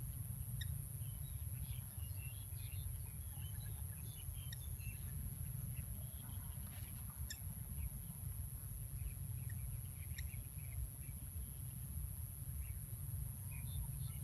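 Small birds chirping in short scattered notes over a steady low rumble, with a constant thin high-pitched whine.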